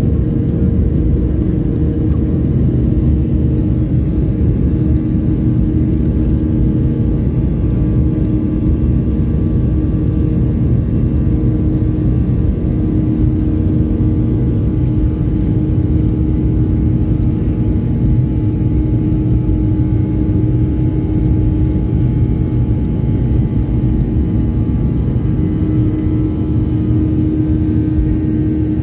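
Airbus A321 jet engines at takeoff thrust: a loud, steady rumble with a few steady droning tones that stay at one pitch.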